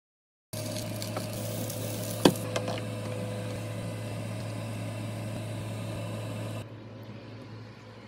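Fish patties frying in oil in a nonstick pan, a steady sizzle over a constant low hum, with a sharp click about two seconds in. The sound drops to a quieter hiss near the end.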